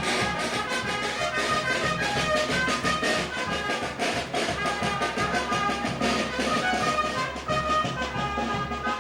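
Brass band playing a tune, horns holding a melody over a steady drumbeat.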